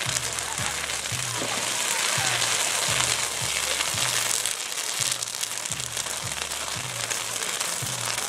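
Bonfire of magnolia wood crackling densely and steadily, with music's bass line pulsing underneath.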